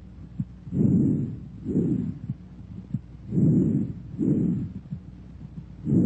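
Bronchovesicular breath sounds heard through a stethoscope: three breaths, each a soft rushing inspiration and expiration of about equal length, with a short gap between them.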